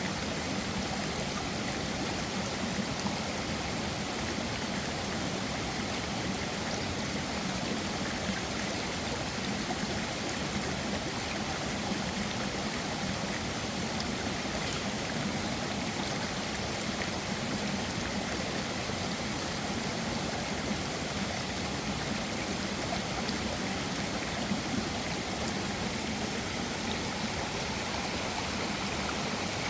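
A mountain stream flowing steadily, an even rush of water with no change through the stretch.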